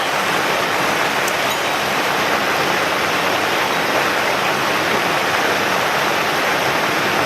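Mountain stream rushing over rocks close by: a steady, unbroken rush of water.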